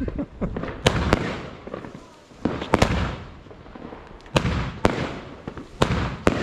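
Consumer firework battery (cake) firing a volley: about eight sharp bangs coming in pairs roughly every one and a half seconds, each followed by a fading crackle of burning stars. Really loud.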